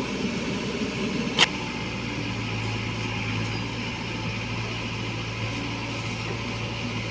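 Heavy diesel engine running steadily with a low hum, and a single sharp metallic knock about a second and a half in.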